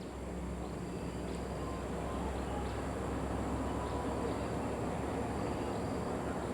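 Scania K450CB coach's engine running with a steady low rumble that grows slightly louder.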